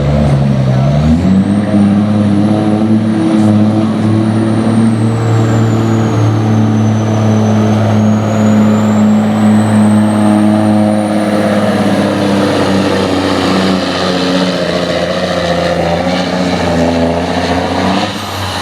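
Peterbilt semi truck's diesel engine pulling a weight sled: it revs up about a second in, holds at high revs under heavy load for most of the pass, and drops away near the end, with a high whistle wavering above it.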